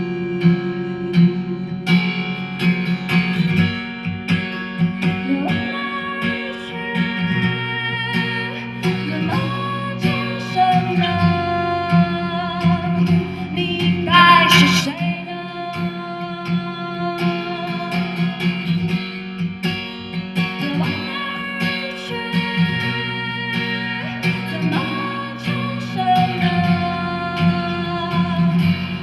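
Live song with a strummed acoustic guitar and a woman singing in long held notes over it.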